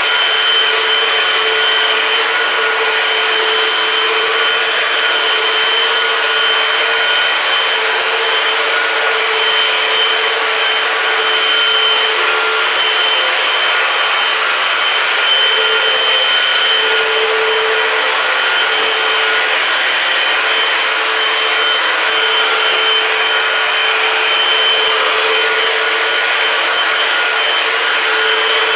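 Eureka AirSpeed Multicyclonic Pet upright vacuum cleaner running steadily on a kitchen floor, a high motor whine over the rush of air, the pitch wavering slightly as it is pushed back and forth.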